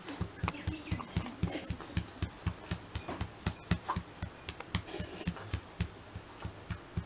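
A Shiba Inu reverse sneezing: a rapid, rhythmic run of muffled snorting inhalations, about four a second, going on without a break.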